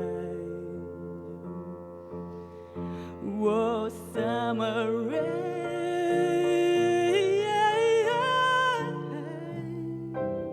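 Live song in a break between lyrics: sustained accompanying chords, with a wordless sung line with vibrato coming in about three seconds in and holding long notes that step upward, dropping away shortly before the end.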